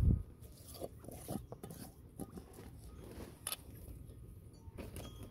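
Scattered faint clicks and taps, typical of quail pecking at seed and food, after a brief low rumble at the very start.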